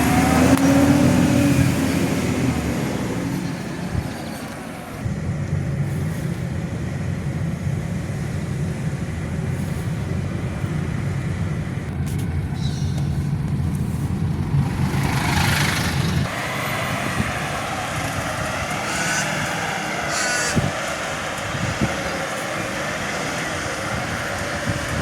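Garbage truck engine running steadily, with a short burst of hiss about fifteen seconds in.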